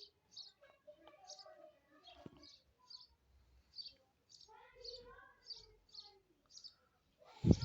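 Bird chirping repeatedly: short, high chirps about twice a second, with a louder noise starting just before the end.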